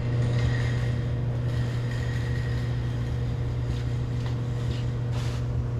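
Steady low mechanical hum, with a fainter steady higher tone above it and a few faint soft noises.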